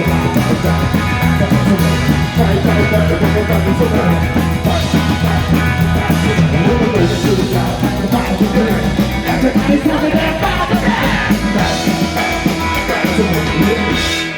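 Live rock-and-roll band playing a fast, loud song with steady pounding bass and drums, guitar and sung vocals; the band stops sharply at the very end.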